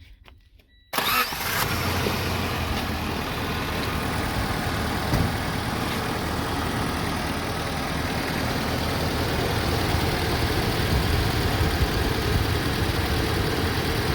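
A Tracker SUV's engine starts about a second in, catching almost at once, and settles into a steady idle. This is its first start after a crankshaft seal replacement and reassembly, with a slight rubbing of the belts on the timing cover that the owner calls pretty much normal until the cover is replaced.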